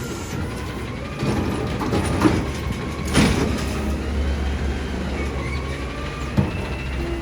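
Side-loader garbage truck at work: the diesel engine runs with a low rumble under a wavering hydraulic whine, and three sharp metal clanks, the loudest a little over three seconds in.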